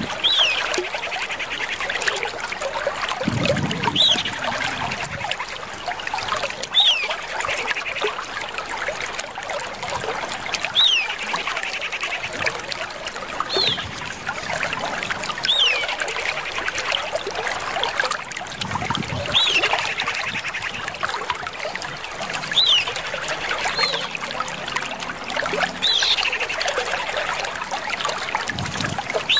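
Common iora calls: short, clear, up-sweeping whistled notes repeated every couple of seconds over a continuous dense chatter. It is a female iora's call used as a lure for a male.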